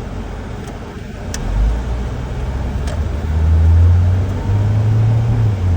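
A car's engine and road noise heard from inside the cabin. A low drone swells about a second and a half in and grows louder, its pitch stepping up slightly near the end, as if the car is accelerating. A few faint clicks come in the first three seconds.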